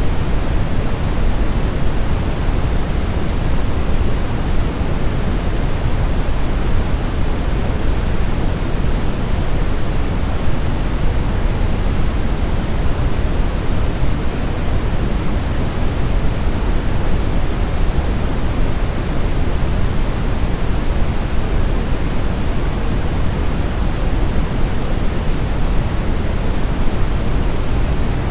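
Steady brown noise: an even, deep rushing hiss weighted to the low end, with no changes or events.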